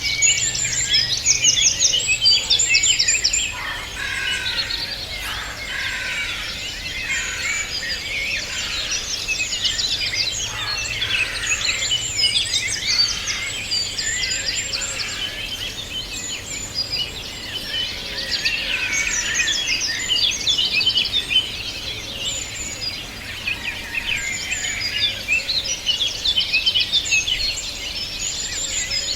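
A chorus of many songbirds singing at once, with overlapping chirps, trills and whistles throughout, over a faint steady background hum.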